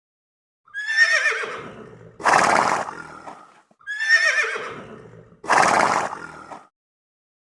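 Horse neighing twice: each time a high, quavering whinny that falls in pitch, followed straight away by a breathy snort. Both calls are identical, the same recording played twice.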